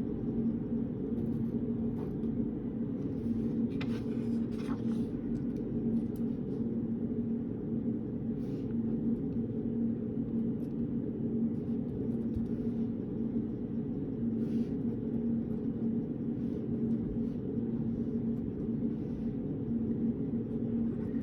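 Steady low hum and rush of a reading room's background noise, with one constant tone in it. A few faint short clicks and rustles sound now and then, about 4, 8 and 14 seconds in.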